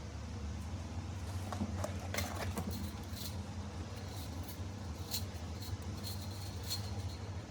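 Scattered faint clicks and light taps of small objects being handled, over a steady low hum.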